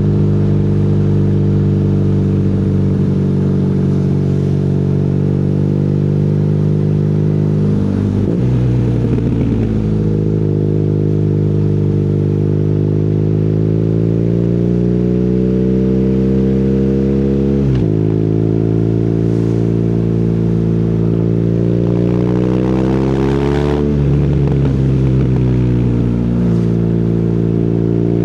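BMW R nineT boxer-twin motorcycle engine through an Akrapovic exhaust, riding under power. The engine note changes abruptly three times, about 8, 18 and 24 seconds in, and after each change climbs steadily in pitch as the bike accelerates.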